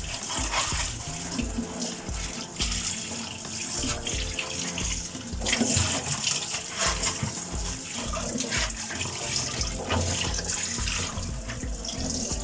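Kitchen sink tap running with water splashing into the basin, switched on suddenly at the start and running steadily, with soft background music underneath.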